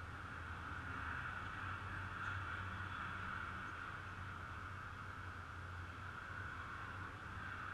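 Steady low engine drone with a constant hiss above it, typical of heavy diesel trucks running.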